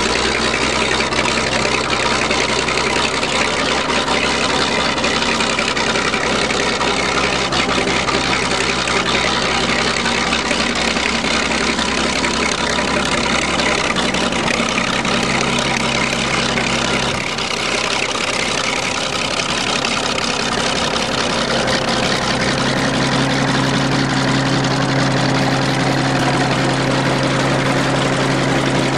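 A vehicle engine running steadily. Its pitch shifts a little about halfway through and again later.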